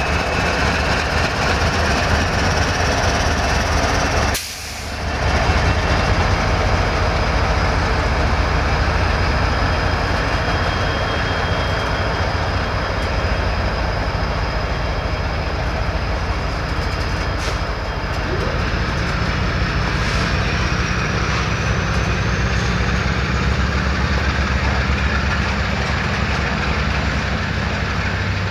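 Norfolk Southern freight train passing close by: the tail of its diesel locomotives gives way to covered hoppers and boxcars, with a steady loud rumble of wheels on rail. The sound drops away briefly about four seconds in.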